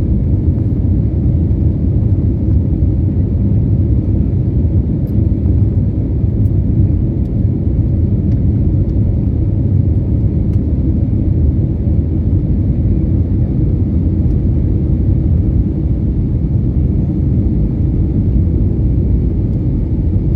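Steady low rumble of an Airbus airliner's cabin noise, jet engines and airflow heard from inside the cabin during the climb, with no change in pitch or level.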